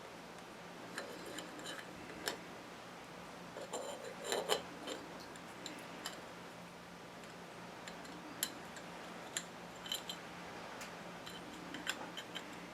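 Light clicks and clinks of small metal parts being handled while a Mule starter motor is taken apart by hand, scattered irregularly, with a short cluster about four seconds in. A steady low hum sits underneath.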